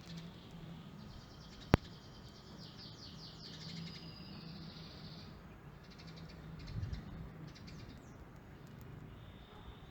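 Small birds chirping in rapid high trills, with a single sharp click about two seconds in.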